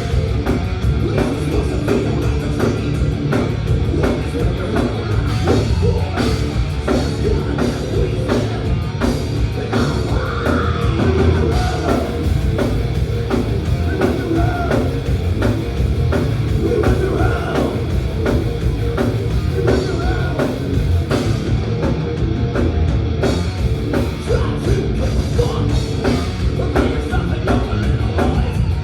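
Thrash metal band playing live and loud: distorted guitars, bass and fast drumming, with some singing.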